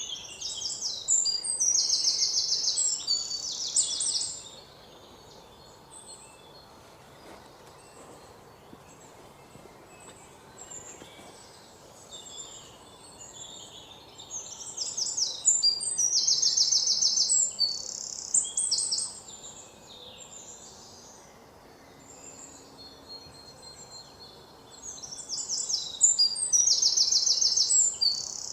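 Bird song, a songbird's phrase of rapid high trills and chirps, comes back in near-identical bursts about every twelve seconds, with a faint hiss between the bursts.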